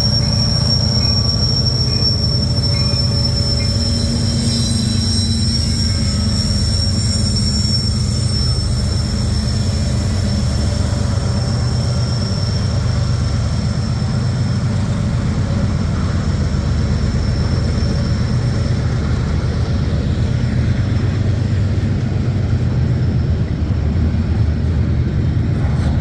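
Cars of a long CSX intermodal freight train rolling past close by: a steady, loud rumble of steel wheels on rail. A thin, high wheel squeal rides over it and fades away about halfway through.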